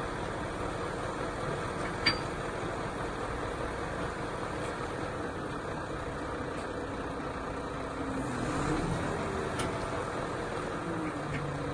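An engine idling steadily, with one sharp click about two seconds in and the engine note wavering up and down later on.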